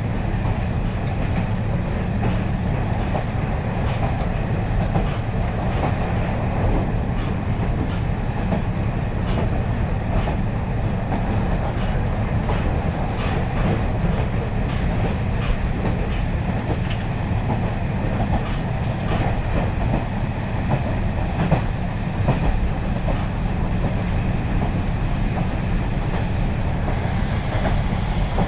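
KiHa 40-series diesel railcar running at speed, heard from inside the cabin: a steady drone of the diesel engine and rumble of the wheels on the rails, with scattered light clicks from the track.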